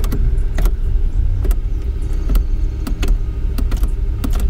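2006 Mercury Grand Marquis's 4.6L V8 idling, heard from inside the cabin, with a string of short clicks and clunks as the column shifter is moved through the gears. The gears are being cycled with the engine running so the transmission pump circulates the freshly changed fluid.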